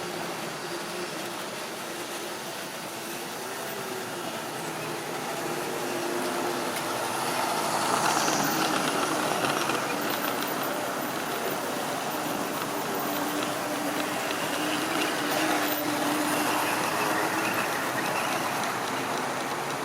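Model railway locomotive and rolling stock running on track: a steady electric motor whine over the rumble of wheels on rail. It grows louder about eight seconds in and again near the end as the train comes closer.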